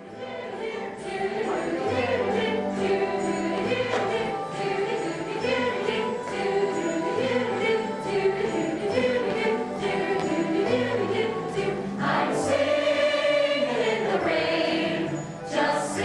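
A musical-theatre song: a group of voices singing together over instrumental accompaniment, fading in from silence at the start.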